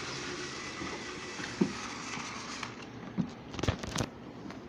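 Battery-powered TrackMaster toy train motor running with a steady whir, with a few sharp plastic clicks and knocks, most of them in the second half.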